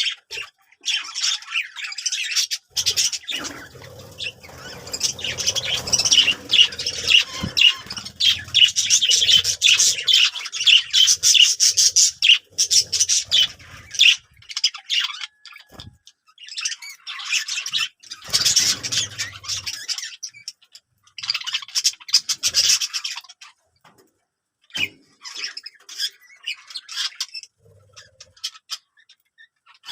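Birds chirping and squawking in repeated bursts of rapid, high calls, broken by short pauses.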